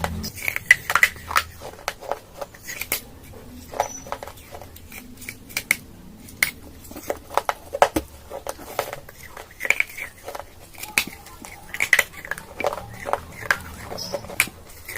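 Close-miked crunching of baked clay pieces being bitten and chewed, a run of sharp, irregular crackles and snaps, several a second.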